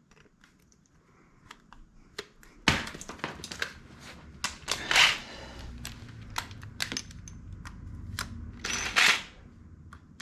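Hand work on motorcycle exhaust parts: scattered sharp metal clicks and clinks, with a few longer scraping or rustling sounds about three, five and nine seconds in.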